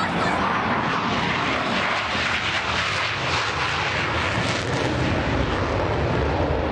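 Jet aircraft flying past, its engines making a loud, steady rushing noise.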